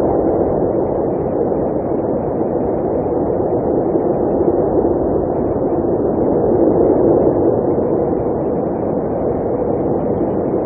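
Blizzard wind blowing steadily, a low even rush that swells slightly about seven seconds in.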